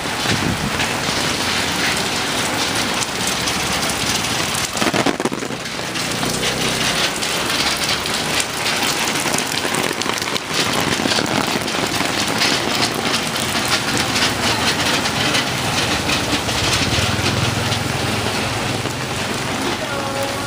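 Heavy rain falling steadily, its drops pattering densely on an umbrella held overhead.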